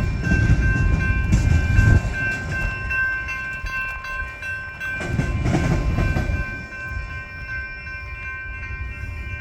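Union Pacific freight train rumbling slowly through a road crossing, the rumble swelling twice, while the crossing's warning bell rings steadily over it.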